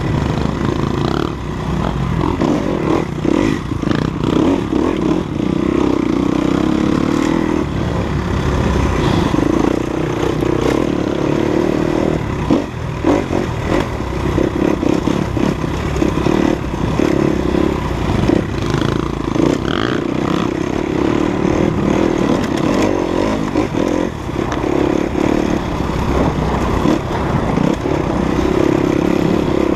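Enduro dirt-bike engine running under varying throttle on a rough trail, its pitch rising and falling, with frequent knocks and clatter from the bike over the ground.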